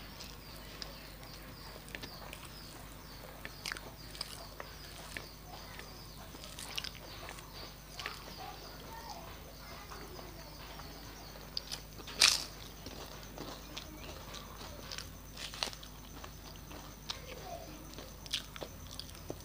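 Close-up mukbang eating sounds: chewing and lip smacks of a mouthful of rice and dal eaten by hand, with scattered small clicks and one sharp, much louder click or crunch a little past the middle. A steady low hum sits underneath.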